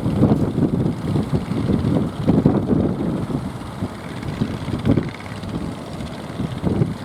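Strong wind buffeting the microphone in uneven gusts, a low rumbling rush.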